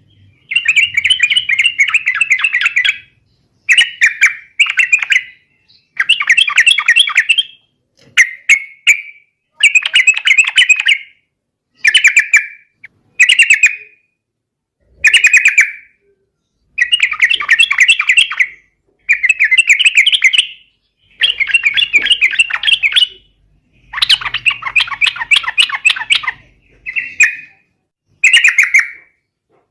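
Yellow-vented bulbul (trucukan) singing vigorously: about fifteen short, rapid chattering phrases of one to two seconds each, with brief pauses between them.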